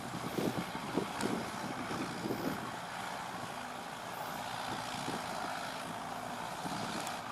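Diesel engine of a tractor or backhoe loader running, uneven for the first couple of seconds, then settling into a steady run.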